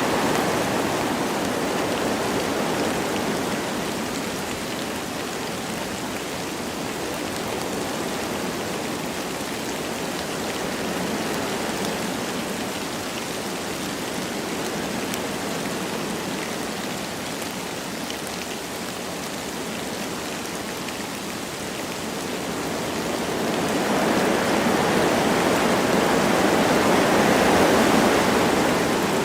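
Wind blowing through forest trees with light rain falling, a steady rushing noise that eases off and then swells up again for several seconds near the end.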